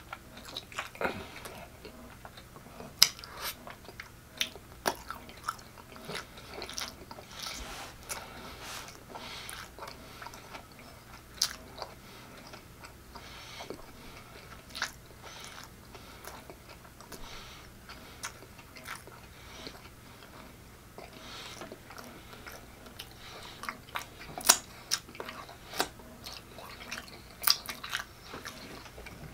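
Close-miked wet chewing and lip smacking as a man eats a mouthful of barbecue pork-chop taco, with irregular sharp clicks of the lips and tongue. Near the end he sucks sauce off his fingers.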